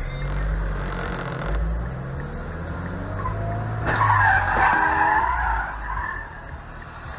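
A car engine running, then about four seconds in a sharp bang followed by loud tyre skidding that fades away, typical of a road crash caught on a dashcam.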